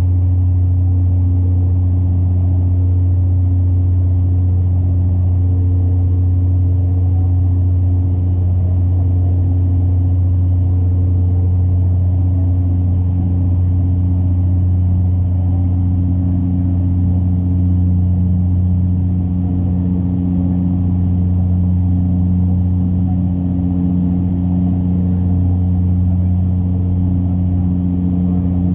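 Steady low propeller drone of a Dash 8 Q400 turboprop heard inside the cabin, a strong hum with a few higher overtones and a light rushing noise above, holding level throughout.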